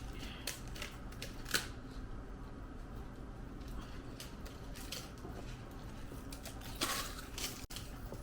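Eating at a dining table: a few small sharp clicks and crunches over a steady low hum, with one longer, louder noise about seven seconds in.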